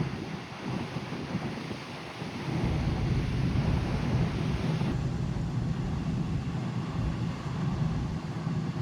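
Wind buffeting the microphone in uneven low rumbles over a steady rush of sea and ship noise, with the hiss thinning abruptly about halfway through.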